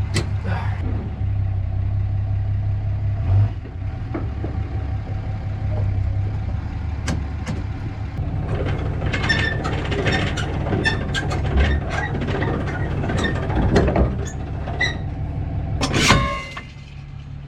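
Diesel pickup engine idling steadily, with a run of sharp clanks and knocks through the second half and one loud bang near the end.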